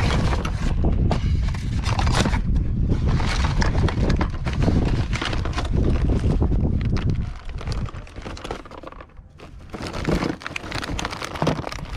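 Rustling, crackling and knocking of junk being rummaged through and handled, over heavy rumbling handling noise on the phone microphone; it eases off to quieter, scattered knocks for the last few seconds.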